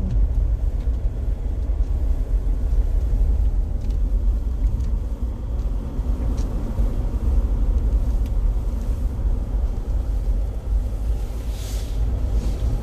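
A Jeep's engine and tyres giving a steady low rumble while driving slowly through snow, with a short hiss near the end.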